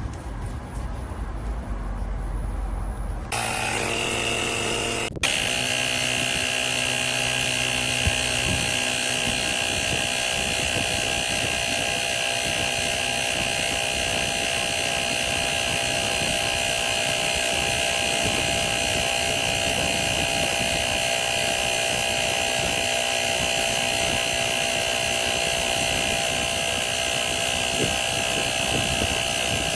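Cordless portable tyre inflator's small piston compressor running steadily, with a constant high-pitched whine over its motor; it settles into this steady run about five seconds in.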